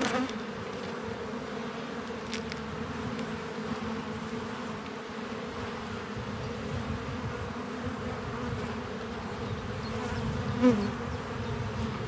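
Honeybees humming steadily over an opened hive during a brood-frame inspection, a steady buzz with a short, louder note that falls in pitch near the end.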